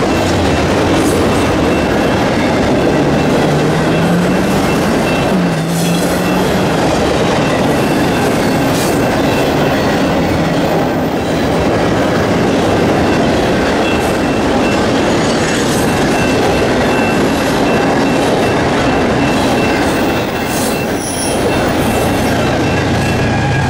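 Freight train cars carrying truck trailers rolling past, with a loud, steady rumble and clatter of steel wheels on the rails. A thin, high squeal holds through most of it.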